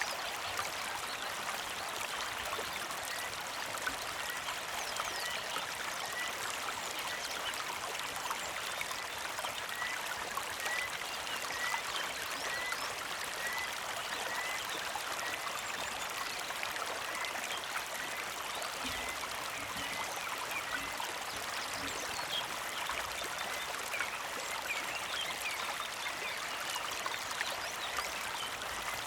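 Small mountain creek flowing and trickling steadily, with a bird repeating a short, high chirp about one and a half times a second through much of the stretch.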